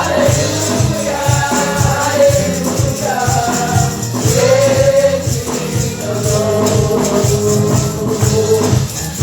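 Gospel praise music: voices singing over a steady bass and drum beat with tambourine.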